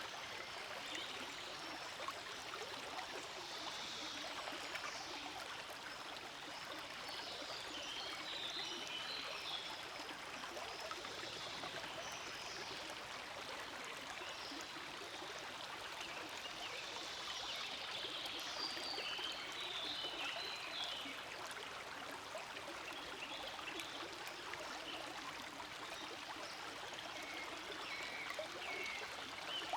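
Forest stream flowing steadily: a continuous babble of running water with shifting splashy detail.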